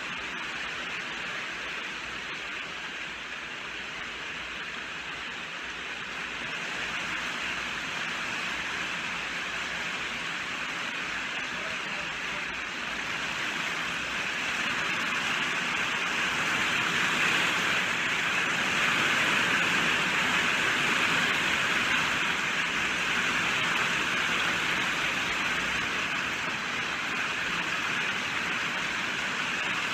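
Steady rainfall, an even hiss of heavy rain that swells louder around the middle and eases slightly near the end.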